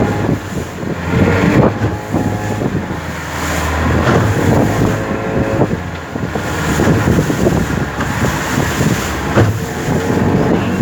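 Small motorboat's engine running steadily under way, with wind buffeting the microphone and irregular knocks throughout.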